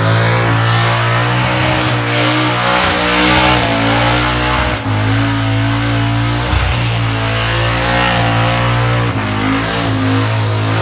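Burnout car's engine held at high revs, its note steady with small rises and dips, while the rear tyres spin and screech in the smoke.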